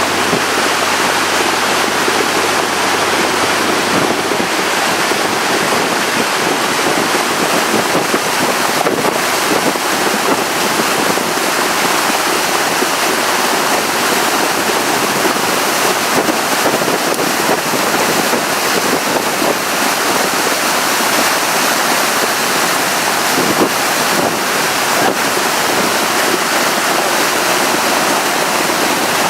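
Steady loud rush of wind buffeting the microphone and water rushing past the hull of a tour boat under way.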